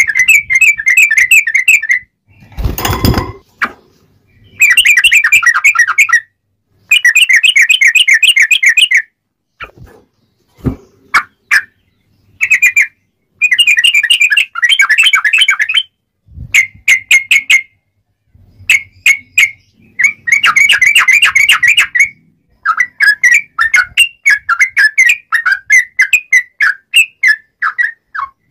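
Sooty-headed bulbul (trucuk) singing in its energetic 'ngobra' style: fast, clear, wavering chattering phrases in bursts of one to two seconds with short pauses. A brief rustling burst of noise comes about three seconds in, and a low thud about sixteen seconds in.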